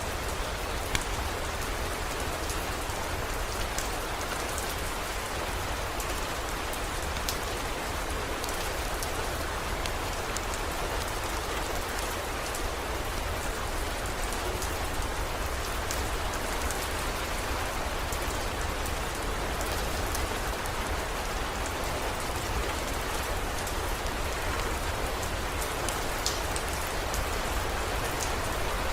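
Steady heavy rain, an even hiss with scattered sharp drop ticks and no thunder.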